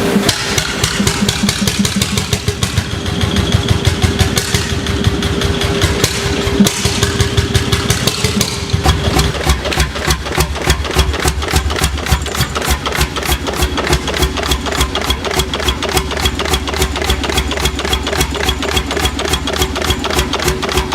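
1930 Rap 24 hp two-stroke hot-bulb semi-diesel engine running with a fast, regular knocking beat that speeds up about nine seconds in.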